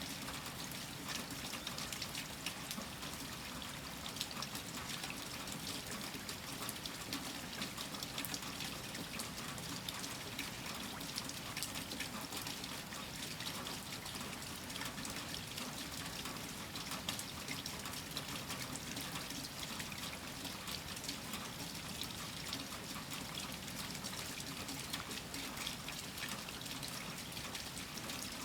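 Steady rain falling, a dense patter of drops with water trickling and pouring underneath.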